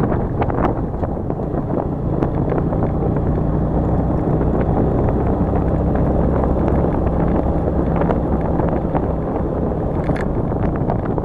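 A vehicle engine running steadily on the move, with wind buffeting the microphone.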